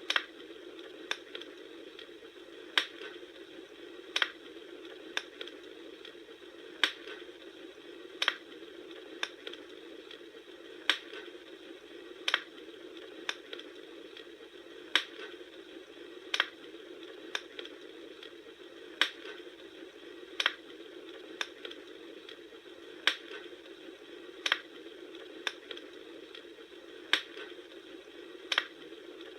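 Wood fire crackling: a steady hiss with sharp pops about once a second.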